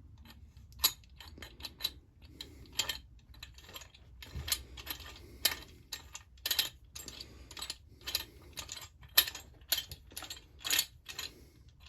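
Irregular sharp metallic clicks and ticks, about twenty of them, from the nut and threaded rod of a homemade puller being worked to draw a chainsaw crankshaft into its new crankcase bearings.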